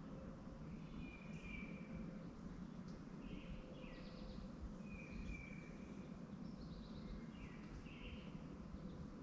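Small birds chirping, short calls about once a second, over a steady low background hum.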